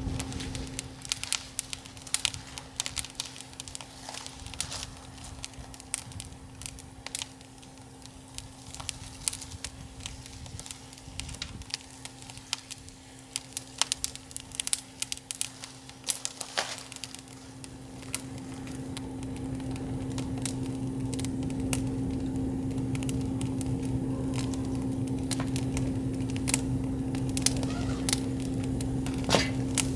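Wood campfire crackling, with irregular sharp pops and snaps. A steady low hum runs underneath and grows louder from about 18 seconds in.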